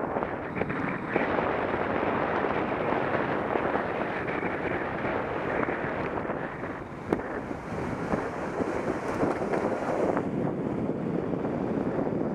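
Wind buffeting an action camera's microphone while cycling, a steady rushing noise, with one sharp click about seven seconds in.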